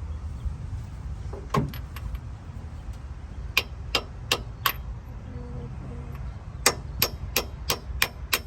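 A hammer tapping a metal part into place: light, ringing metallic strikes about three a second, a pair early, then four, then a run of six near the end, over a steady low rumble.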